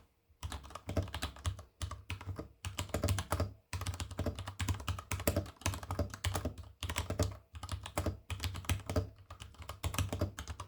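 Typing on a Ducky x Varmilo Miya Pro Panda mechanical keyboard with lubed brown tactile switches: fast runs of muted keystroke clacks, broken by a few short pauses.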